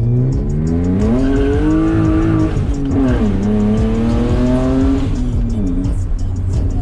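BMW E36 engine under hard acceleration: the revs climb, drop sharply at a quick upshift about three seconds in, climb again, then fall away as the throttle eases near the end.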